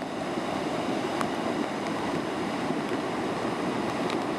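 Floodwater rushing steadily, with a few faint clicks.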